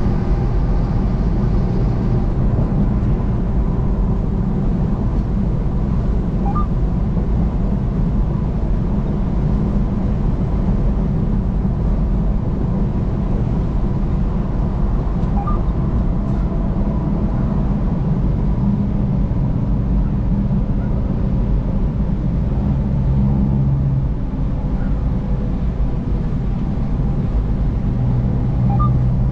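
A car driving at highway speed, with a steady low rumble of road and engine noise.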